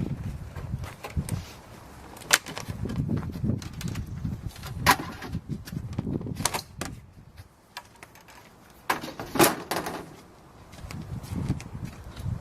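Irregular knocks, clicks and thumps of hard parts being handled on a Porta-Bote folding boat, with one louder ringing knock late on.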